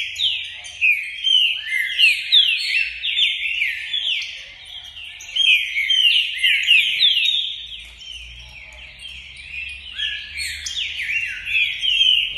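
Caged songbird singing a fast, continuous run of down-slurred whistled notes. It eases off for a couple of seconds partway through, then goes on again.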